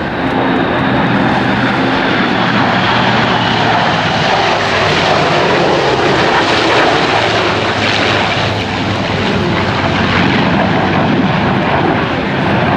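Military aircraft of the USAF Heritage Flight (P-51 Mustang, F-4 Phantom and F-22 Raptor) flying past: a loud, steady rush of engine noise that swells around the middle.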